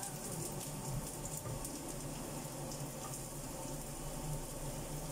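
Oil sizzling steadily in a frying pan as sliced shallots and garlic fry, with a fine crackle throughout. A low steady hum runs underneath.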